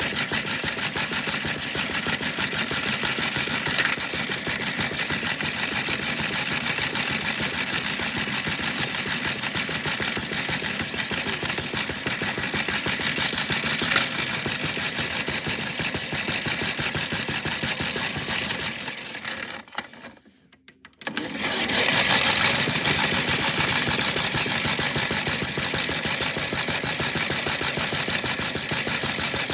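Washing machine running with a big rock inside, giving a dense, fast, steady rattling clatter. About two-thirds of the way through, the sound breaks off for about a second, then comes back.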